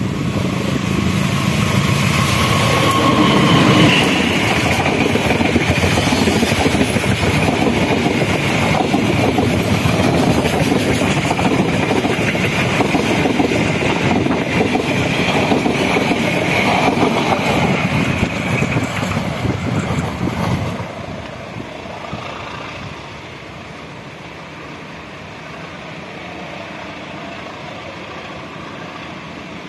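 A diesel-hauled passenger train passes close by: the locomotive's engine and then the coaches' wheels run loudly over the rails for about twenty seconds. The noise drops off sharply as the last coach goes by and fades as the train moves away.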